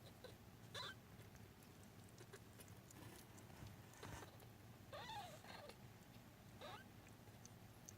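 22-day-old British Blue kittens mewing faintly: three short, high cries, the loudest about five seconds in, with a few soft ticks of movement between them.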